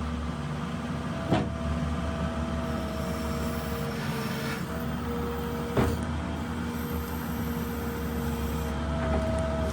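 New Holland LS170 skid steer's diesel engine running steadily under the operator, with a higher whine that shifts in pitch now and then. Two sharp knocks cut through, one about a second in and one about halfway.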